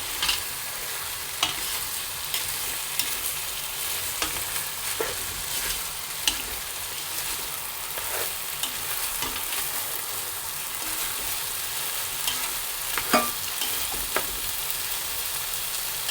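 Chicken and soaked basmati rice sizzling in a hot pan in curry paste and oil while being stirred, with a steady hiss and the spatula clicking and scraping against the pan now and then, the sharpest knock about 13 seconds in.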